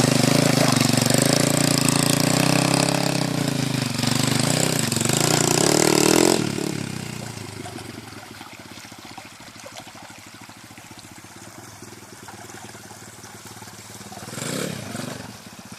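Pit bike engine running close by with the revs rising and falling, then dropping off abruptly after about six seconds to a faint, distant engine note, which swells briefly near the end.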